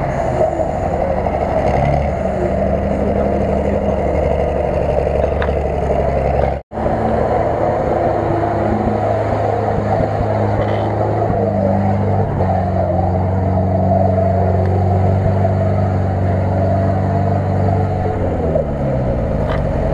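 Off-road 4x4 engines labouring in deep mud: a Lada Niva revving through marsh, then, after a brief break in the sound, a UAZ off-roader's engine running hard under load, its revs dropping near the end.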